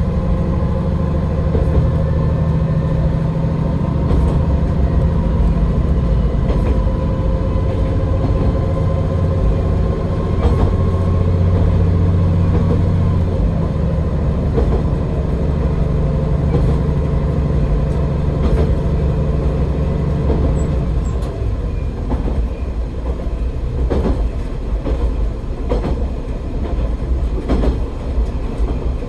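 AN-8800 diesel railcar running along the line, its engine droning steadily under power; about two-thirds of the way through the engine note drops away as the railcar coasts, leaving the wheels clicking over rail joints and the running noise of the car.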